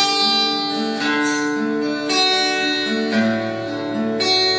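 Guitar strumming sustained chords, a new strum about once a second, leading into a worship song.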